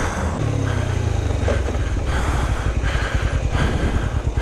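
Motorcycle engine running, its revs falling over the first second or so and then settling into a steady, pulsing idle.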